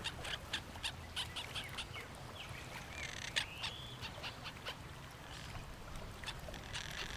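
Birds calling around a pond: a run of short, quick chirps throughout, with a couple of sliding calls about halfway through.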